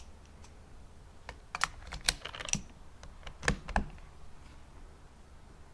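A short run of sharp clicks and taps, clustered between about one and four seconds in, over a faint low hum.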